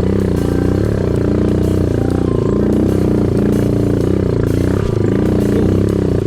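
Engine of an off-road vehicle running under way, its revs rising and falling over and over as it is ridden along a trail.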